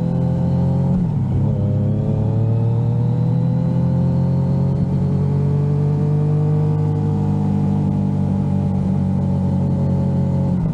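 Yamaha XSR900 inline-three engine pulling under way. About a second in the pitch drops sharply, like an upshift. The revs then climb slowly through the gear and ease off a little near the end.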